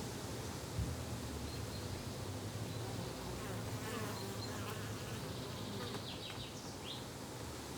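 A flying insect buzzing steadily close by in a garden, with a few quick high chirps near the end and a short soft knock about a second in.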